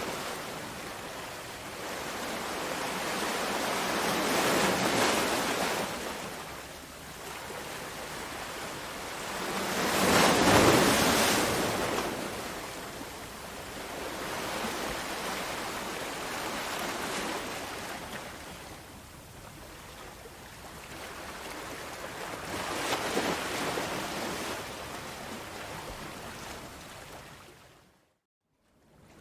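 Sea waves washing onto a shore, the noise swelling and fading in several slow surges, the biggest about ten seconds in. The sound cuts out for about a second near the end.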